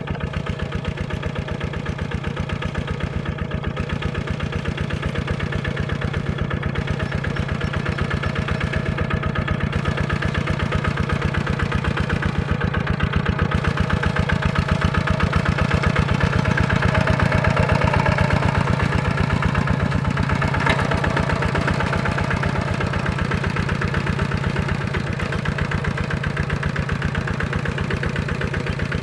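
Tractor diesel engine running steadily with an even chugging beat, growing a little louder about halfway through and then easing back.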